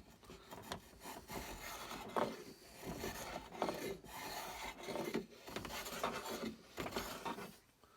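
Hand tool scraping along the wooden stock of a muzzleloading rifle in a run of uneven back-and-forth strokes, about one a second, that stop near the end. The wood is being taken down in light cuts to shape the comb and cheek piece.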